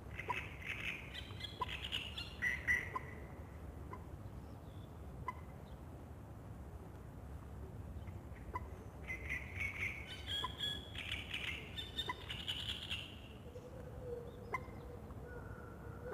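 Songbird singing in two warbling bursts, one at the start and one in the middle, over a steady low background hum. A short chip note repeats about once a second throughout. A steady held tone comes in near the end.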